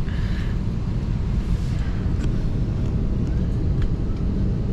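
Steady low rumble of cabin noise inside an airliner, the engines and air-conditioning running, with a few faint clicks.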